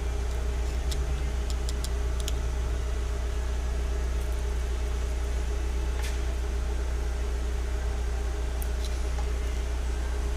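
Fiat Palio Fire engine idling steadily, with a few faint clicks. The noise comes from the oil pump: the crankshaft has end play from a worn thrust face, so its nose pushes against the pump.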